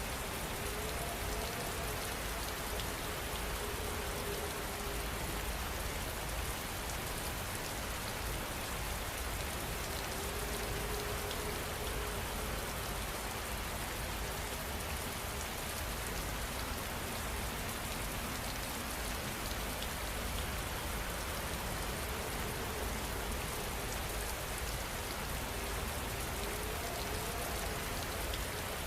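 Heavy rain falling steadily, an even, unbroken wash of rain noise.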